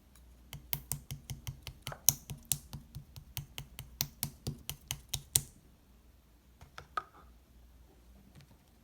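Clear slime being poked and pressed by fingers, giving a quick run of sharp clicking pops, about four a second, for roughly five seconds, then a few more clicks after a pause.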